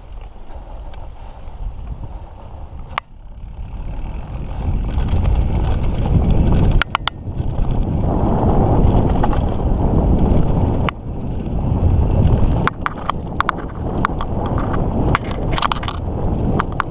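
Mountain bike being ridden fast on a dirt trail: wind rumbling on the microphone and tyre noise, with the bike's chain and frame rattling in sharp clicks over bumps, most often near the end.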